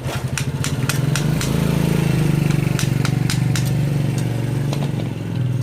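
A small engine running steadily at idle, with sharp clicks and taps over it.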